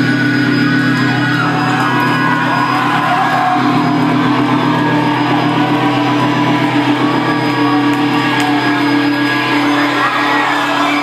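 Live post-hardcore band playing loudly, recorded on a phone's microphone in a concert hall, with the audience whooping.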